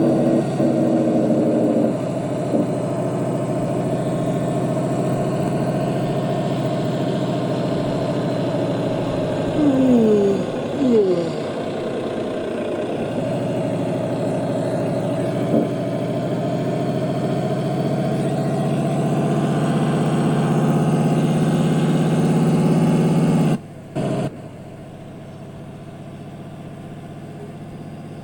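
Truck engine running steadily, with two short falling-pitch tones about ten seconds in; the sound drops off abruptly about 23 seconds in.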